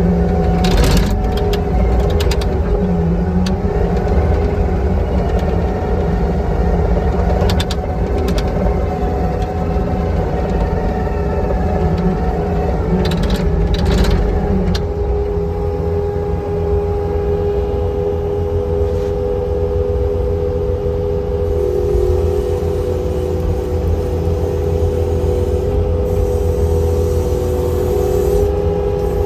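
Kubota SVL-95 track loader's V3800 diesel engine running steadily, with a steady whine over the engine noise and a few sharp knocks.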